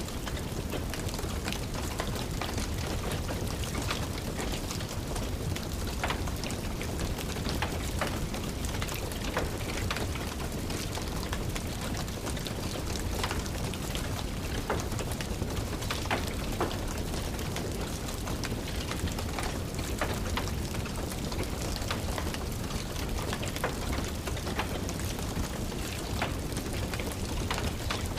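Steady rain tapping on a windowsill mixed with a crackling wood fire, its small sharp pops scattered irregularly through the steady hiss.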